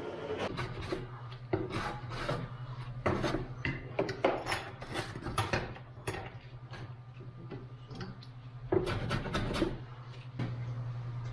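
Wood being handled and worked: irregular wooden knocks and scraping rubs, over a steady low hum.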